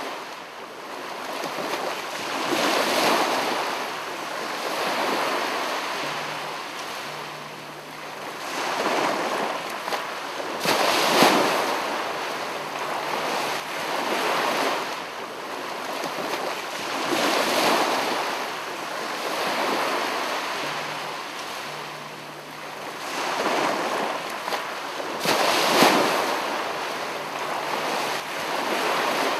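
Ocean surf: a steady rush of waves washing in, swelling and fading every two to four seconds.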